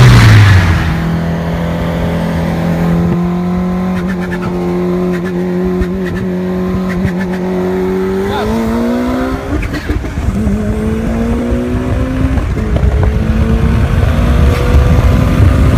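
Turbocharged car engine winding down after a full-throttle run, then running at steady low revs. Its note rises briefly about eight seconds in, settles, and grows louder again near the end.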